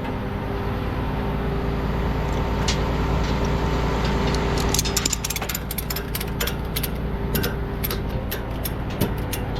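Tow truck's engine idling steadily. From about five seconds in there is a quick run of sharp clicks from a ratchet strap being cranked tight.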